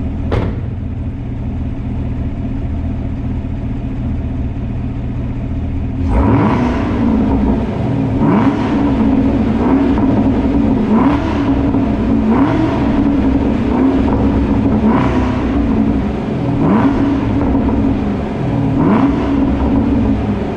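Chevrolet Camaro ZL1's supercharged 6.2-litre V8 idling through its exhaust, then, about six seconds in, revved repeatedly with short throttle blips every second or two, echoing in a parking garage. A single click sounds right at the start.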